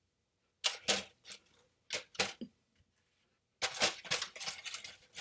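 Chewing a big mouthful of homemade giant Oreo cookie close to the microphone: irregular crunchy, sticky crackles, a few scattered ones at first, then a dense run through the second half.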